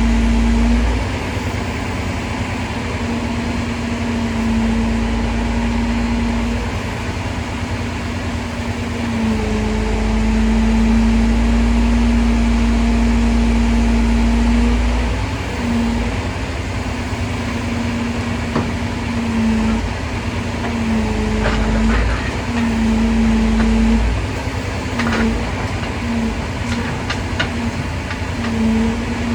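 Truck-mounted crane's engine and hydraulics running: a steady hum with a deep rumble under it that cuts in and out repeatedly, more often in the second half, with a few sharp clicks near the end.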